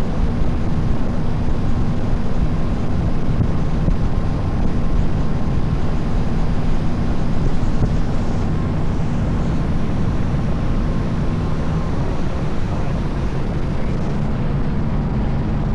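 Small tour boat's engine running steadily under way, under a loud, even rushing noise.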